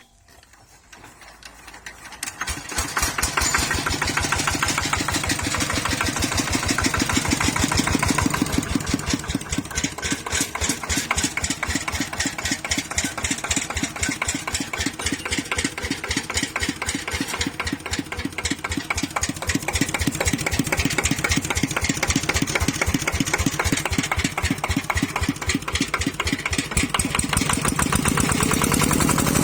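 Kubota ET95 single-cylinder diesel engine on a walk-behind tractor, running with an even beat of firing strokes. It builds up from quiet over the first couple of seconds, then runs steadily.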